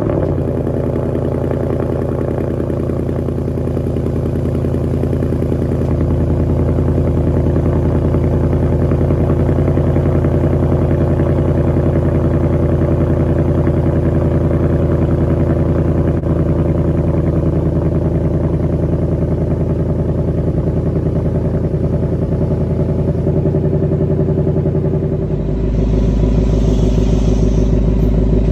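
2018 Mustang GT's 5.0 L Coyote V8 running at a steady fast idle just after a cold start, heard through the stock exhaust with its resonator and mufflers. The idle note shifts lower and deeper near the end.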